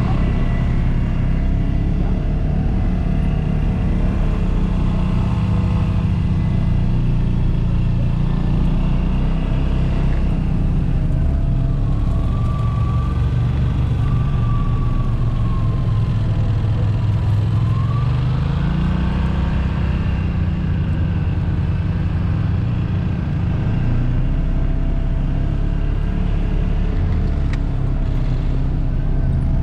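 Side-by-side UTV engine running while driving a trail. A higher whine dips slightly and then climbs again past the middle as the throttle changes.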